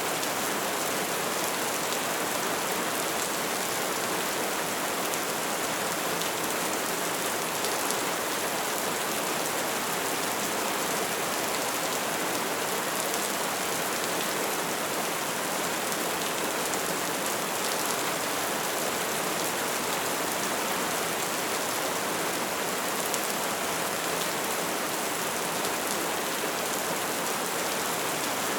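Wood fire burning steadily, a dense hiss of flames with many small crackles and pops throughout.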